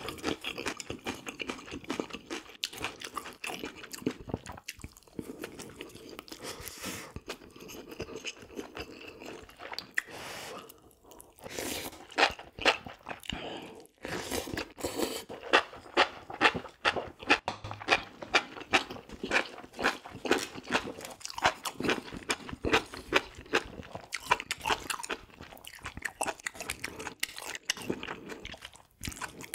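Close-miked chewing of food, with repeated crisp crunches as a person bites and chews mouthful after mouthful.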